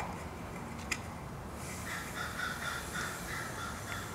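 Two light clicks as a compressor regulator knob is turned. From about two seconds in, a bird gives a rapid series of about seven short cawing calls.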